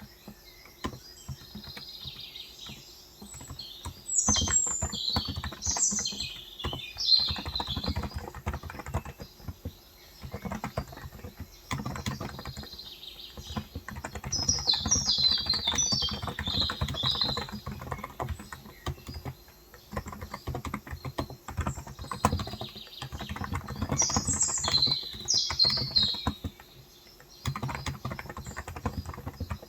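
Typing on a COX Endeavor electrostatic-capacitive (contactless) 35 g tenkeyless keyboard: fast runs of key presses with short pauses. Birds chirp in three bursts of quick high twitters, about four seconds in, near the middle, and near the end.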